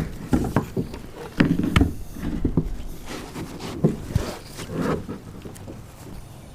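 Irregular knocks, clunks and rattles of gear being handled against a kayak's hull, busiest in the first couple of seconds, over steady wind noise.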